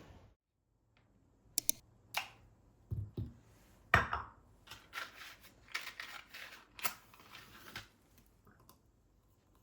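A string of light, sharp clicks and taps, about a dozen, irregularly spaced, like small objects being handled, with a cluster of closer taps in the second half.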